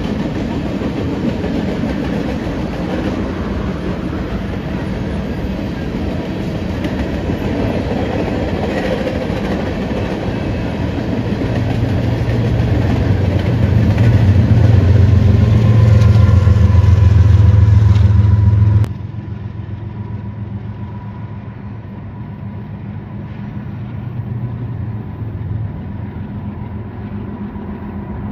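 Loaded freight train of covered hopper cars rolling past close by, wheels clattering over the rail joints, swelling to a heavy low rumble. About two-thirds of the way through it cuts off suddenly to a quieter, steady rumble of a distant approaching freight train.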